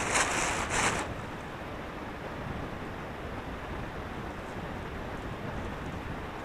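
Steady wind-like noise, with a short, louder noisy burst of about three quick pulses in the first second.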